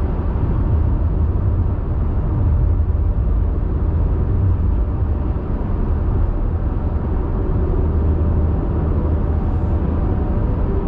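A car driving along at speed: a steady low rumble of tyre and engine noise.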